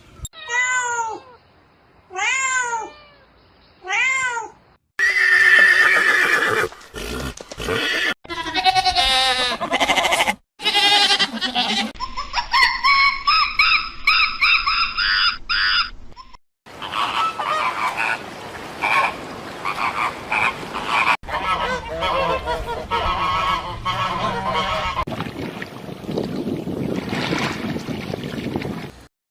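A run of short animal clips cut together: three separate pitched calls, each sweeping downward, in the first few seconds, then a changing mix of animal calls and noise with abrupt cuts between clips.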